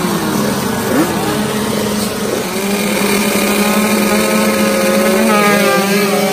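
Dirt bike engines at high revs, the pitch sweeping up in quick rises through the gears at first, then holding a steadier note that drops in pitch about five seconds in.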